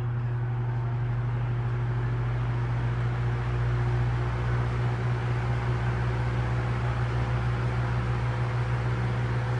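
Vintage Emerson electric table fan running on medium speed: a steady low motor hum under the even rush of air from the blades.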